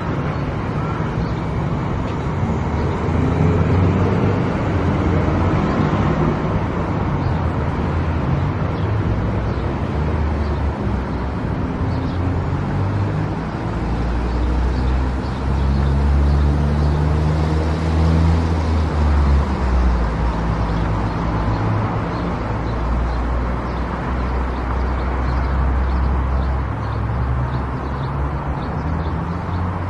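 A car driving on a road: steady engine and tyre noise, with the engine note shifting up and then back down around the middle.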